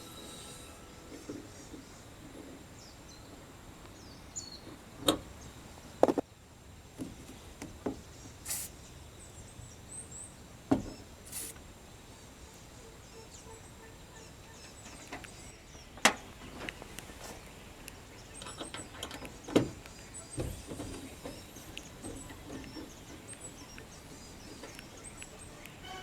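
Scattered sharp clicks and knocks, about half a dozen over the stretch, against a faint steady background with faint short high chirps.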